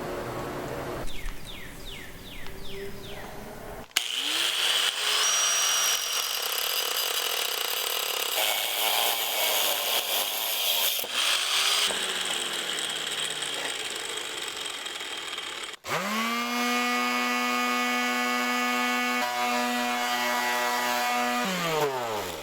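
An electric power tool's motor, in a few short cut-together clips. It spins up to a steady whine and runs with a noisy cutting or grinding hiss, then winds down with falling pitch near the end.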